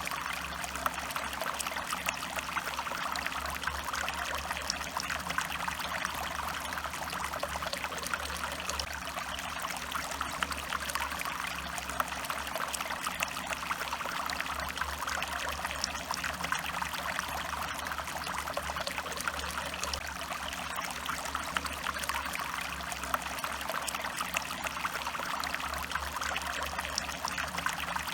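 Stream water running and trickling steadily, an unbroken rush speckled with small splashes and drips.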